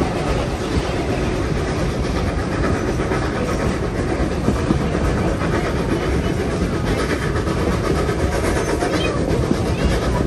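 Steam-hauled passenger train running along the track, a steady rumble and rattle of carriage wheels on the rails.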